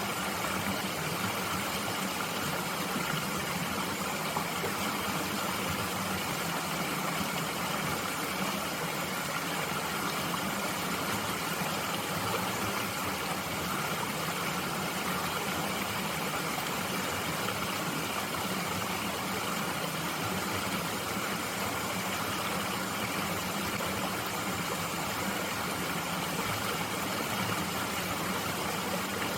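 Steady rush of a mountain stream flowing, an even unbroken water noise.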